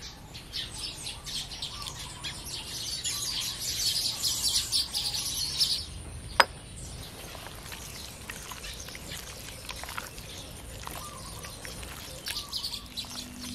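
Birds chirping and calling, busiest in the first half, with one sharp click about six seconds in.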